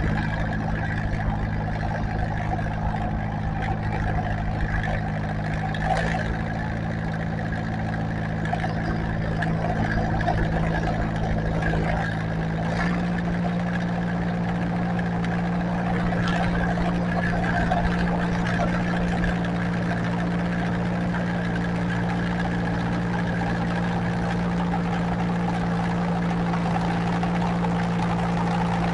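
Tractor engine running steadily at a fairly constant speed. Its pitch steps up slightly twice, about six and thirteen seconds in.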